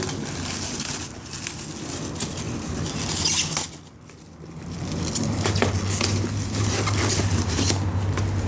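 Cardboard box and plastic-wrapped firework canister shells being handled and shuffled, a run of irregular rustles, scrapes and light knocks. A steady low hum comes in about halfway through.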